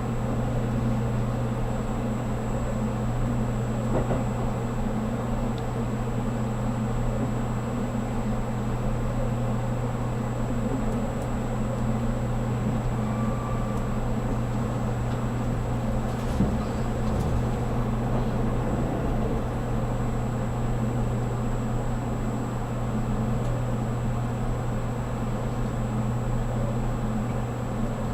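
Steady running noise heard inside a 783-series electric limited express train car: an even low hum and rumble of the train under way.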